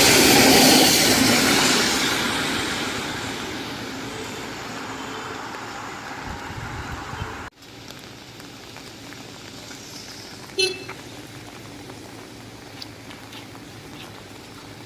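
A vehicle passing on a rain-soaked road: tyres hissing through the water, loud at first and fading away over several seconds. About halfway through it cuts off sharply to a quieter wet street background with a brief knock.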